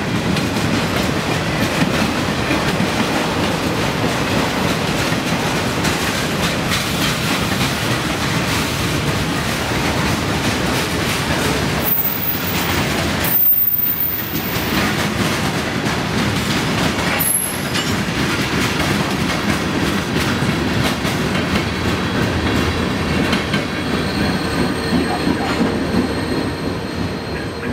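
Union Pacific freight train cars rolling past on steel rails, a steady rumble and clatter of wheels on track. There are two brief high-pitched wheel squeals around the middle.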